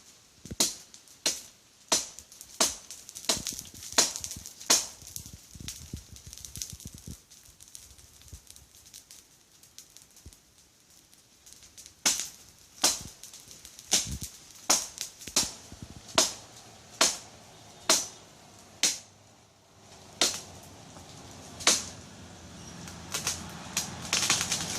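Cutlass (machete) blade chopping into a tree, sharp strikes about one and a half a second. A run of about seven strikes, a pause of several seconds, then a longer run of chops.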